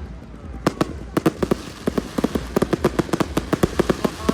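Fireworks crackling: a rapid, irregular run of many sharp pops, starting about half a second in.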